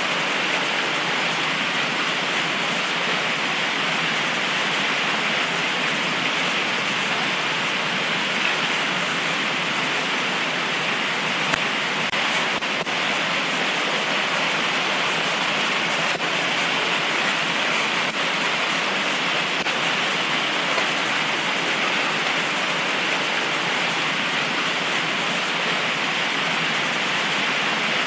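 Heavy tropical rain pouring steadily, an even, unbroken hiss, with a few faint ticks of individual drops partway through.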